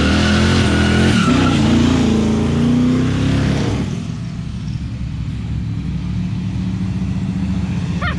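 Car engine revving hard as the car pulls away, its pitch climbing, dipping once about a second in and climbing again, then falling off about four seconds in to a steadier low engine rumble.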